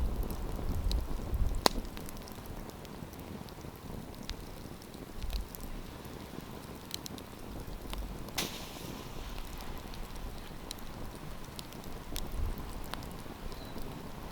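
Wood campfire crackling, with scattered sharp pops over a steady low rush. Two louder pops come about a second and a half in and just past eight seconds, the second followed by a brief hiss.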